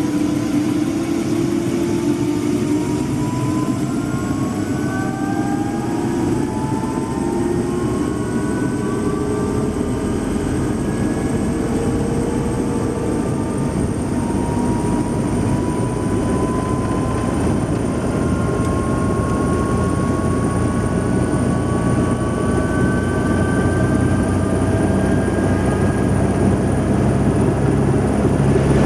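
Helicopter's turbine engine and rotor running loudly and steadily, with thin whines rising slowly in pitch.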